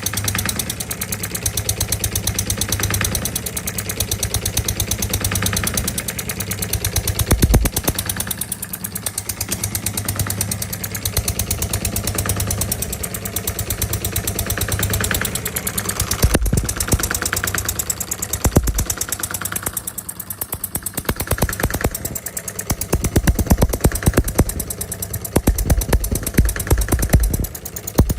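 Small D16 model diesel engine running, a rapid even train of firing beats. In the last several seconds the beats grow heavier and more uneven.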